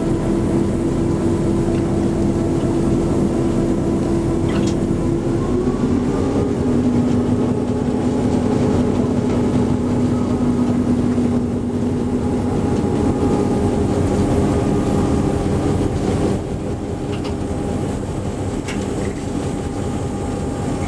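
Diesel locomotive engine running steadily under the train, a constant drone with a hum of several steady tones. Its note shifts about six seconds in, and it eases slightly after about sixteen seconds.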